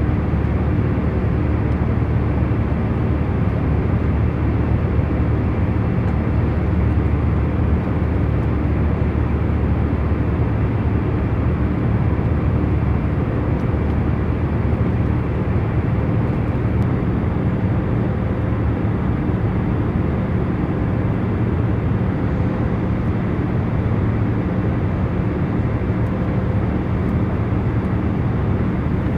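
Airliner cabin noise in cruise flight: a steady, low rushing hum of engines and airflow with a few faint, even tones in it.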